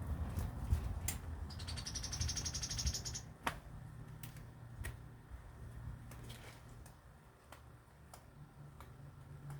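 A small bird's fast trill: a quick, evenly pulsed run of high notes lasting under two seconds that steps up in pitch partway through. Scattered sharp clicks follow.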